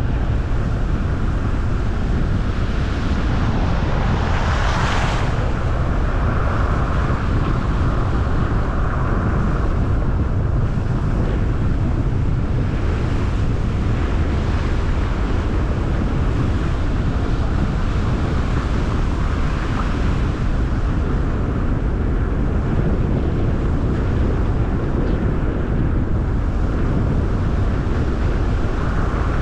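A car driving at steady speed, with a constant low road rumble and a hiss of tyres and wind. A brief louder rush comes about four to five seconds in.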